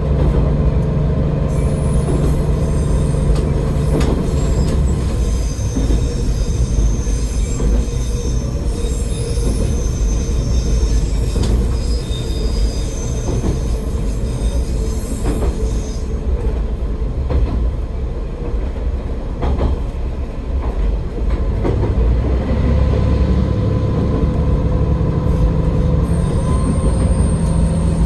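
Akita Nairiku Line AN-8800 diesel railcar running, heard from inside the cab: a steady low engine drone with the rumble of wheels on rail, occasional clicks over rail joints, and a thin high wheel squeal at times.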